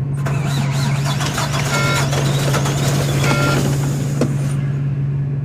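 Volvo semi truck's diesel engine running rough just after a cold start in freezing weather, with a steady low drone, a wavering high whine, and two short beeps about two seconds and three seconds in.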